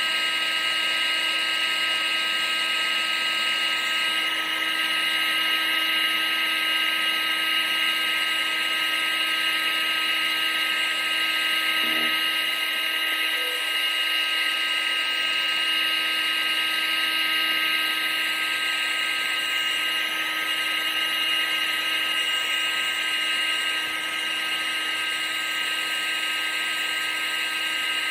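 Electric blower motor of a household appliance running steadily: a constant high whine over rushing air, played as continuous white noise.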